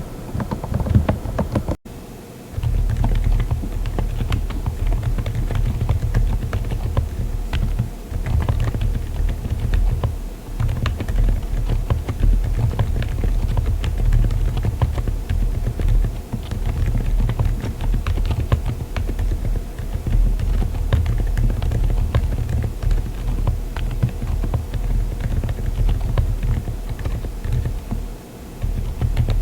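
Continuous typing on a mechanical keyboard with silent switches, a dense run of keystrokes. A short break about two seconds in marks the change from Moksae linear switches to Keychron Banana tactile switches, which are heard for the rest.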